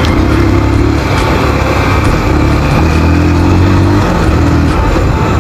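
Motorcycle engine running steadily while the bike is ridden along a road. It is a continuous drone with slight shifts in pitch, under a steady rush of road noise.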